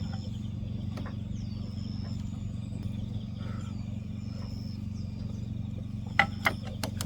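A steady low mechanical hum, like an engine running, with faint high chirping calls over it and a few sharp clicks about six seconds in.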